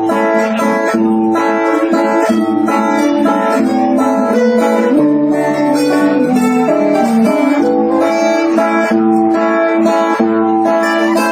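Music: an acoustic guitar strumming chords in a steady rhythm, an instrumental passage with no singing.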